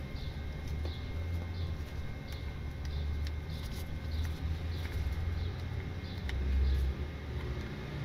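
A steady low rumble, with a bird chirping over and over, short high chirps roughly every half second to second.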